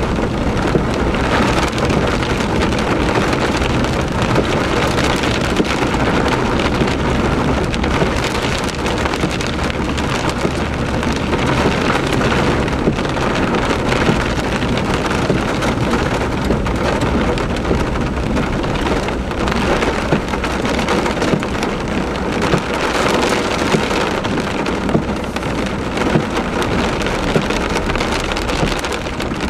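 Heavy rain falling steadily, a dense constant hiss of many small drop impacts.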